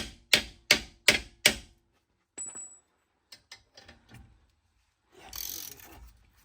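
Hammer blows on steel: five sharp, ringing strikes at nearly three a second during the first second and a half, driving at a seized rear axle and puller on a BMW E46 hub. After them come a few scattered metallic clicks and, near the end, about a second of rasping, ratchety noise.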